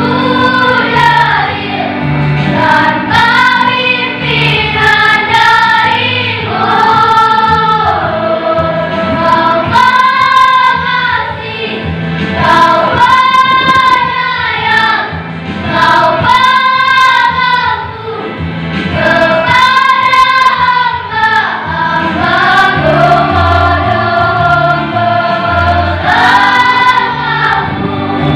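A choir singing a song in several voices, holding long notes that rise and fall in phrases of a second or two.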